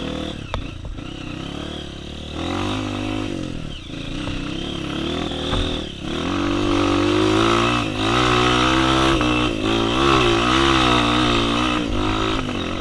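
Honda CRF230 trail bike fitted with a 240 big-bore kit and an aggressive cam. Its single-cylinder four-stroke engine revs up and down as it climbs, getting louder about halfway through.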